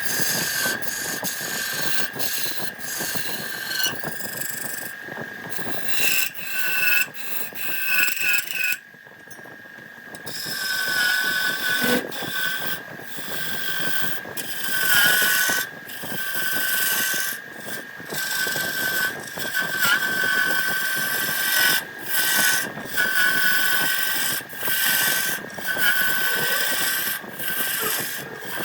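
Wood lathe running with a turning tool cutting the spinning wood in uneven passes, over a steady high whine. There is a short lull about nine seconds in.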